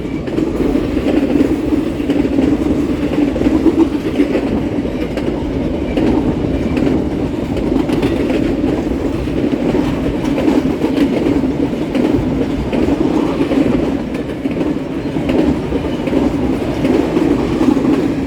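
Cars of a long freight train rolling steadily past, with wheels clacking over the rail joints.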